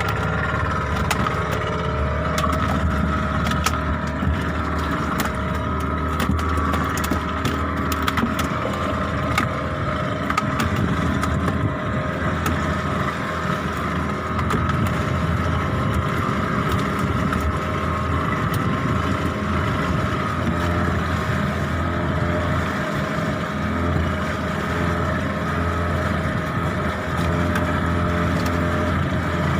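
Boat engine running steadily, a constant low drone with scattered light clicks over it.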